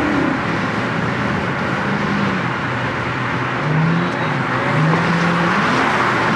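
Cars driving in traffic: steady engine and road noise, with a few brief low pitched tones about two, four and five seconds in.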